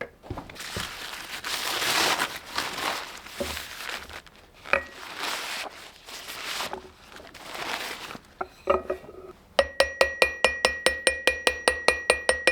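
Bursts of rough, scraping noise with a single ringing metal strike, then from about three-quarters of the way in a fast, even run of hammer blows on a steel anvil, each ringing with a clear bell-like tone.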